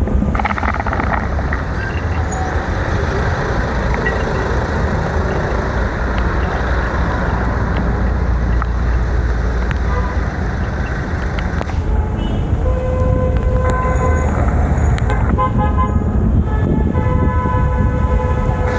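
Steady wind and road noise, and in the second half vehicle horns honking repeatedly in several long toots.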